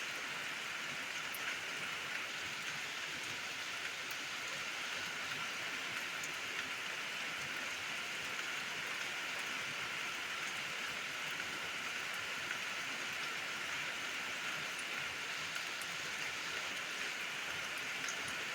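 Steady rain falling: an even hiss, with a few faint drop ticks scattered through it.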